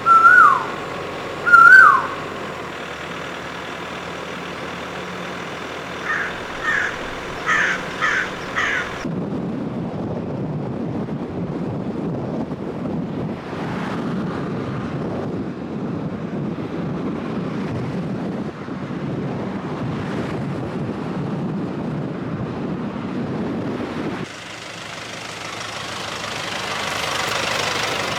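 Seaside mangrove night ambience. It opens with a bird's loud whistled calls, each falling in pitch, followed a few seconds later by a short run of chirps. These give way to a steady low rushing noise, which changes near the end to a higher hiss that swells and eases.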